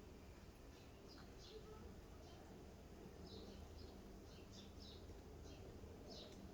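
Faint bird chirps: short, high, downward-sweeping calls repeated every half second or so, over a low steady background rumble.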